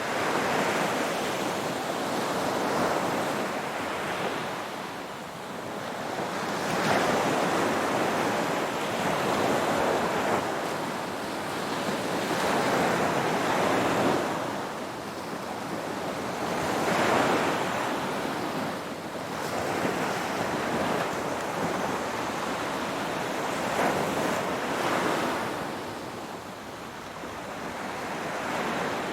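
Ocean waves breaking on a shore, a continuous wash of surf that swells and eases with each wave, about every three to five seconds.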